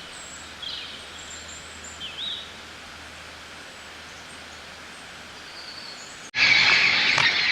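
Faint outdoor hiss with a few thin bird chirps, then, about six seconds in, a sudden jump to a loud flock of many parrots squawking together.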